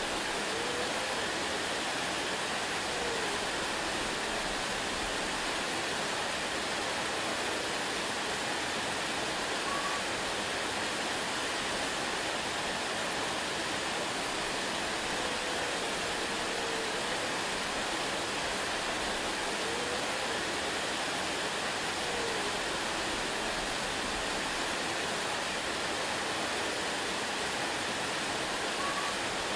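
Waterfall: water falling and rushing in a steady, unbroken wash, with a few faint short chirps here and there.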